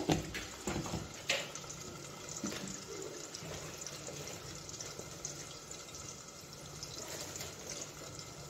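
Potatoes frying in hot oil in a covered pan: a steady sizzle with fine crackles. A few sharp knocks of utensils near the start.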